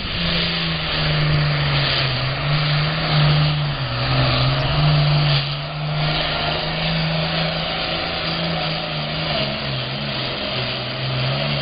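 International 966 super farm pulling tractor's diesel engine running hard under load as it pulls the sled, its pitch holding fairly steady, sagging a little partway through and climbing again near the end.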